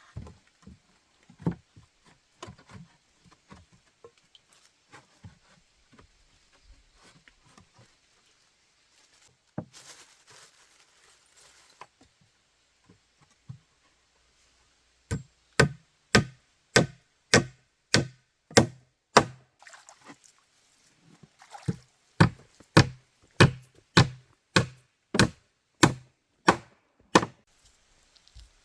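Rhythmic sharp strikes, chop-like knocks about one and a half a second, in two runs of roughly five seconds each with a short pause between, after a spell of scattered lighter knocks.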